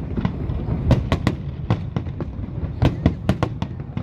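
Aerial fireworks bursting: many sharp bangs in quick, irregular succession over a steady low rumble.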